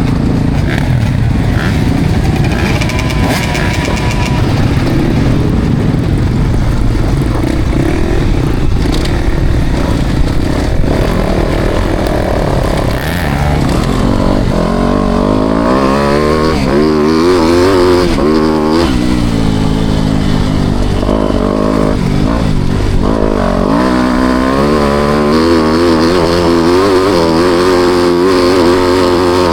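Four-stroke motocross bike engine on track. A dense rumble first, then from about halfway the engine is heard plainly, revving up and falling back again and again.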